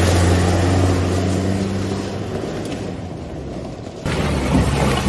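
Toyota Hilux pickup engine running at steady revs, its hum slowly fading, then about four seconds in an abrupt switch to a louder, rougher engine sound.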